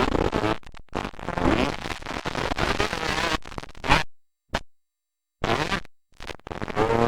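Dirt bike engines revving on a motocross track, their pitch rising and falling as the riders work the throttle. The sound cuts out completely for about a second near the middle.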